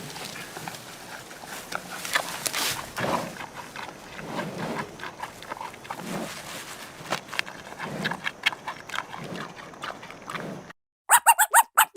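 Animal calls over steady background noise that stop abruptly near the end, followed by a quick run of loud, high, sharp yaps.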